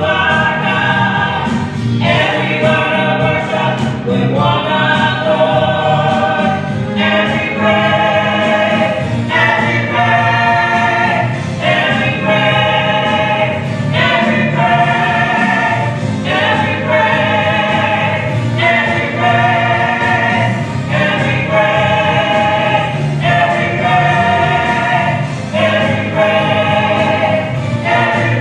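Gospel choir singing with instrumental accompaniment, held chords changing about every second or two.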